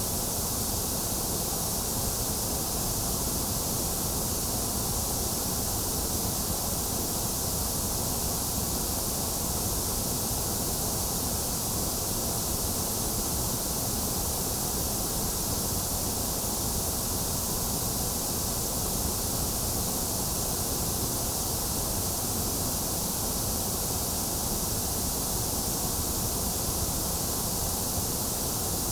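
Steady synthetic white noise: an even, bright hiss that does not change.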